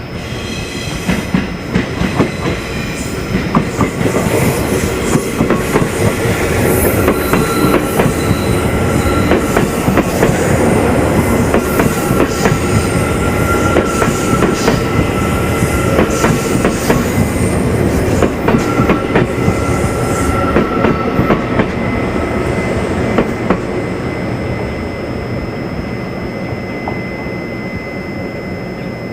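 Train passing close by, wheels clattering rapidly over the rail joints, with brief high-pitched wheel squeals partway through; the sound builds over the first few seconds and eases off near the end.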